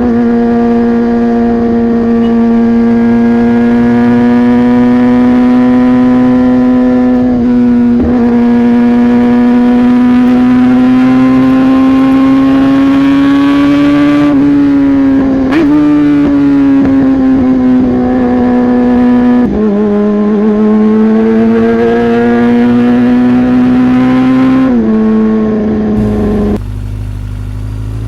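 Yamaha R15 V3's single-cylinder 155 cc engine with a modified exhaust, held at high, steady revs while riding. The pitch slowly rises and dips a few times, then falls and gets quieter near the end as the bike eases off.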